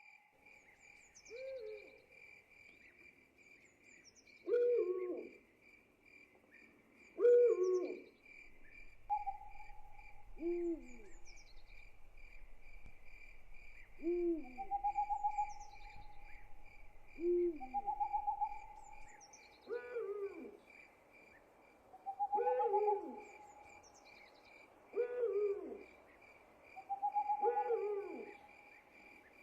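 Owls hooting over and over, short calls every two to three seconds with some longer held notes between them, above a steady chirping of crickets.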